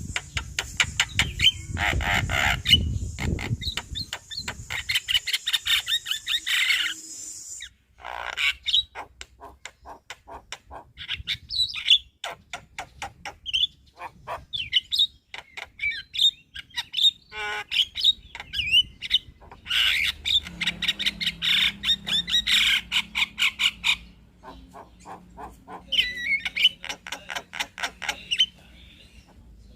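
Javan myna (jalak kebo) singing a long, varied chattering song of rapid clicks, harsh squawks and short whistled notes, with a few brief pauses.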